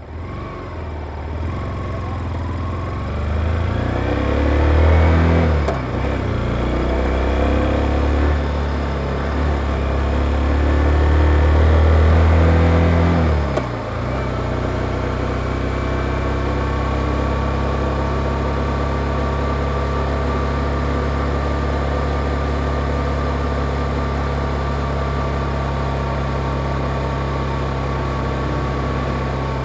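Yamaha XSR155's single-cylinder engine through its stock exhaust, accelerating hard with rising revs, a gear change about five seconds in, and a second climb. About halfway through the revs drop sharply and the engine settles into a steady, even note.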